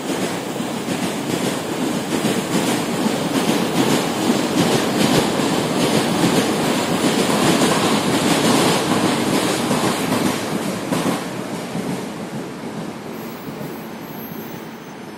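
A train running past on nearby rails, its wheels clattering over the rail joints in a regular rhythm. It is loud for most of the stretch and eases off over the last few seconds as it moves away.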